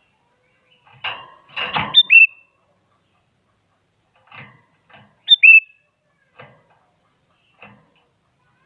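Sooty-headed bulbul calling in two bursts, about two seconds in and again about five seconds in, each ending in short, clear whistled notes that dip in pitch. Scattered fainter rough notes come in between.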